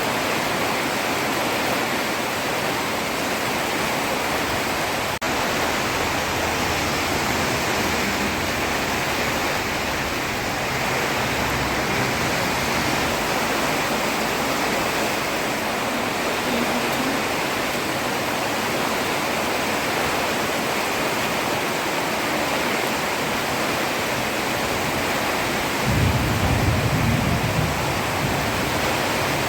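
Heavy rain falling steadily on a road, a dense, even hiss. A short low rumble swells near the end.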